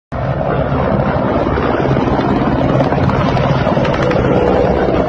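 Military helicopters flying past, a loud steady rotor and engine noise with a fast low pulsing.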